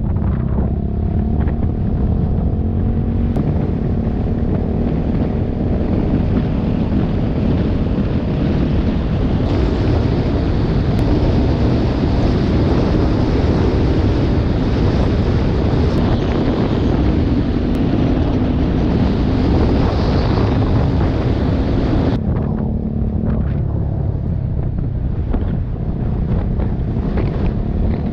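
Motorcycle engine running under way, with heavy wind noise buffeting the microphone. The rush of wind grows stronger partway through and drops off sharply about 22 seconds in, as the bike slows.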